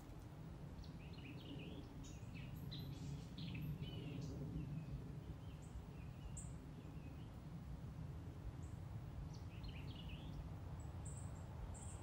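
Outdoor ambience: birds chirping and calling in short bursts over a steady low rumble. The chirps come thickest in the first few seconds and again near the end.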